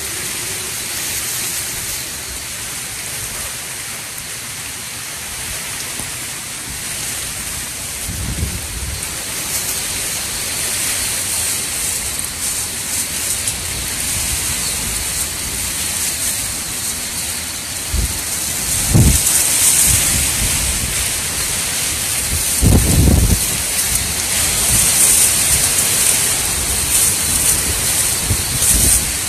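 Hurricane wind and driving rain: a steady loud hiss, with deep rumbling gusts buffeting through three times and the storm growing louder in the second half.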